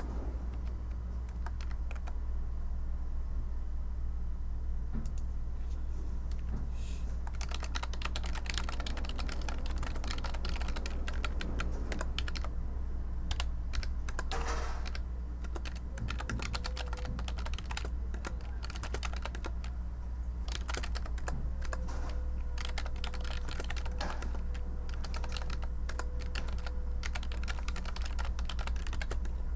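Typing on a computer keyboard: a few scattered keystrokes at first, then steady rapid typing from about a quarter of the way in, over a constant low hum.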